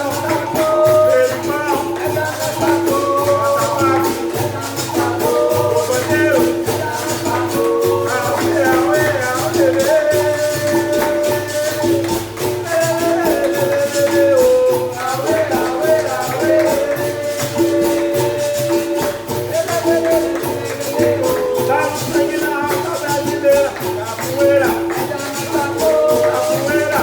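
Capoeira bateria playing: berimbaus sounding a steady pulsing toque, with shaken rattling percussion and a voice singing a capoeira song over it.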